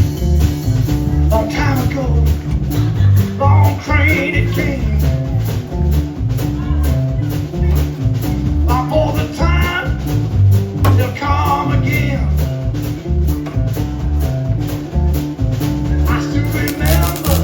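Blues band music: a steady, pulsing bass line and guitar, with a singing voice coming in short phrases several times.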